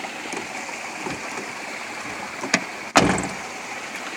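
Spring water running steadily, with a sharp click about two and a half seconds in and a louder thump about half a second later.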